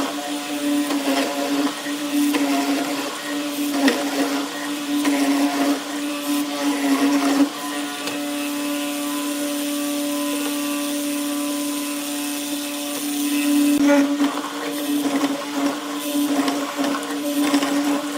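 Electric power tool's motor running at a steady pitch. Rough, uneven noise rides on it for the first several seconds and again near the end, with a smoother stretch in the middle.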